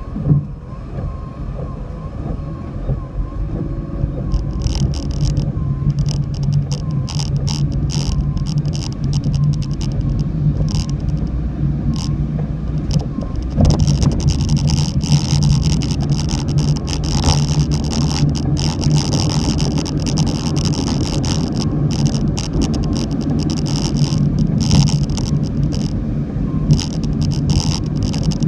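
Car driving through heavy typhoon rain: a steady engine and road drone, with frequent hissing bursts of water spray and rain that start about four seconds in and grow busier in the second half.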